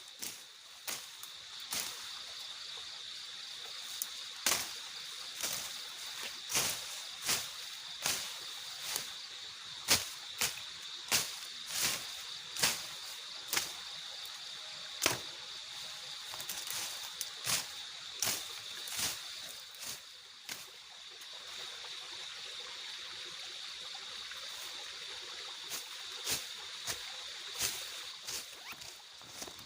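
A steady high-pitched insect chorus, with many sharp, irregular taps or knocks over it, about one or two a second, thinning out past the middle.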